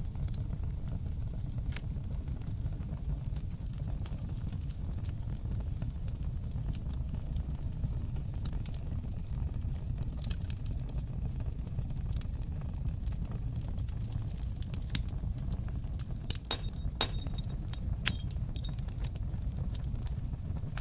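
Wood fire burning in a fireplace: a steady low rumble of flames with scattered sharp crackles and pops, bunched together about sixteen seconds in and loudest near the end.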